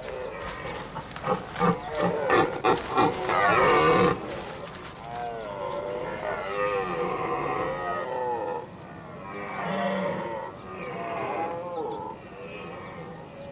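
Red deer stags roaring in the rut. A loud run of short, grunting roars comes in the first four seconds, then several more roars, quieter and spaced out.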